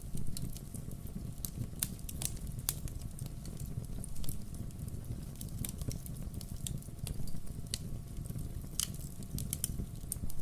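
Firewood burning: a steady low rumble of flames with scattered, irregular sharp crackles and pops from the logs.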